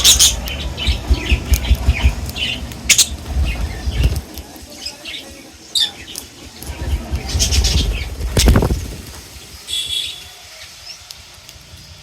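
Birds fluttering and flapping their wings, with short high chirps, over a low rumble; busiest in the first four seconds. A louder rustle of wings comes about eight and a half seconds in, and a brief high call near ten seconds.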